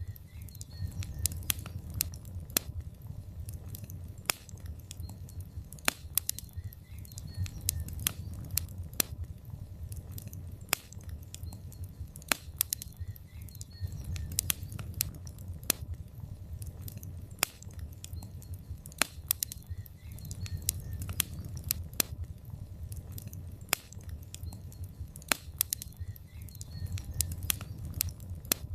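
Log fire crackling in a fireplace: irregular sharp pops and snaps, several a second, over a steady low rumble of the flames.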